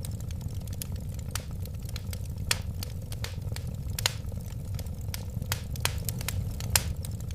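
Wood fire burning: a steady low rumble under irregular sharp crackles and pops, a few of them louder than the rest.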